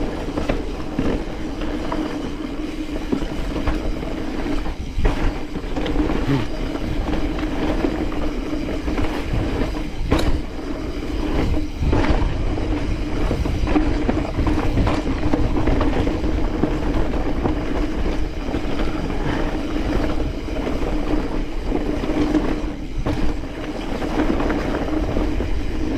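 Mountain bike riding fast down a dirt flow trail: a steady rolling drone from the tyres and drivetrain over a low rumble, with scattered sharp knocks and rattles as the bike hits bumps.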